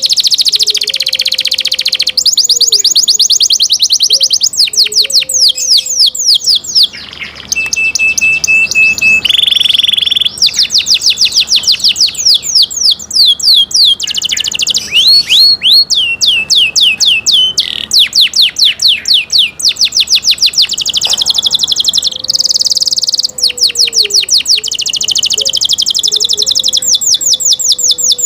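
Canary singing: long, fast trills of repeated high falling notes that switch from one trill to another every second or two, broken about seven to ten seconds in by two short, steady whistled notes.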